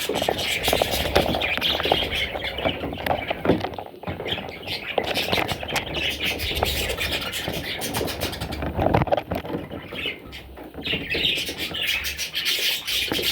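Budgerigars squawking and chattering continuously, a busy scratchy stream of calls with many quick clicks.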